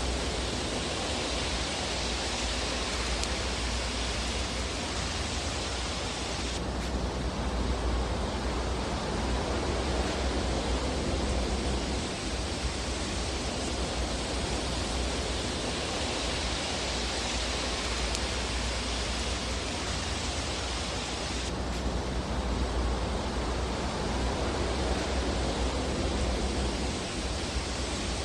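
Steady, even rushing hiss of a fireplace fire ambience track, with no distinct crackles standing out. Its brighter upper part drops away abruptly twice, about a quarter of the way in and again about three-quarters of the way in.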